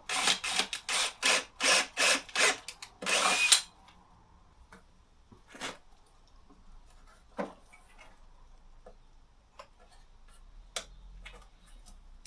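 A tool working a wooden branch: a quick run of short, loud, noisy strokes, about three a second, ending in a longer one about three seconds in. A few light knocks and clicks follow.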